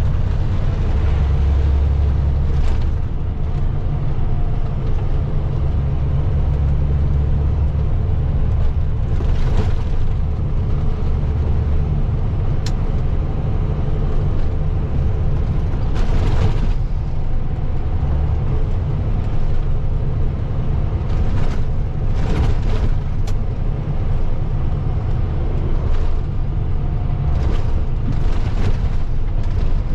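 Semi-truck diesel engine and road noise heard inside the cab while driving in a high gear, a steady heavy low rumble. A few brief louder noises come and go across it.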